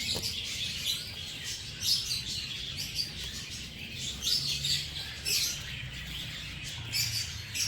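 Birds chirping: a busy run of short, high chirps, close together and repeated throughout.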